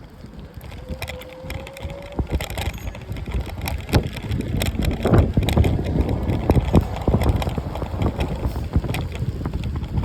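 Wind buffeting a phone's microphone while moving, a low rumble that grows louder over the first few seconds, broken by many sharp clicks and knocks.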